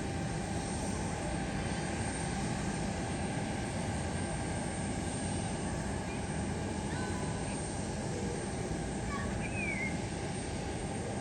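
Steady aircraft engine noise with a faint constant whine, unchanging throughout, and a few faint chirps near the end.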